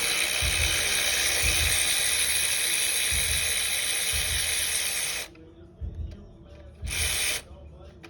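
Power tool run steadily for about five seconds, then once more briefly about seven seconds in, working fasteners loose during an engine teardown.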